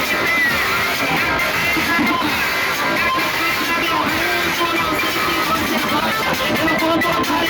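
Loud music with strummed guitar and singing, played through car sound-system speaker walls.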